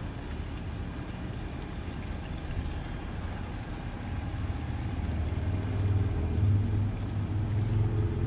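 A low engine hum that grows louder over the last few seconds, over a steady background hiss.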